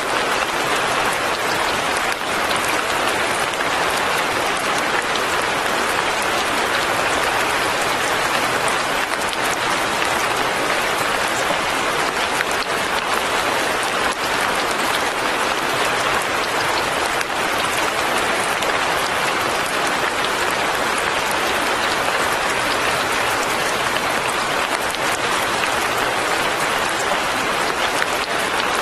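Steady fine rain, an even hiss of many small drops with no breaks or changes in strength.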